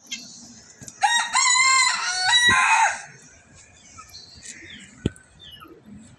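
A loud, drawn-out animal call about two seconds long, in several pitched segments that break and shift in pitch, followed a couple of seconds later by a single sharp click.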